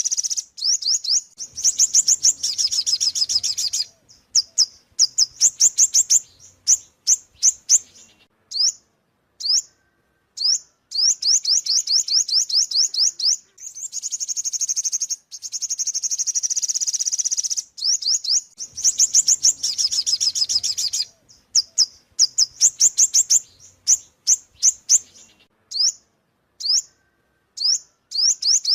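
Ornate sunbird singing: fast runs of high, thin chirping notes, several a second, in bursts of a few seconds broken by short pauses.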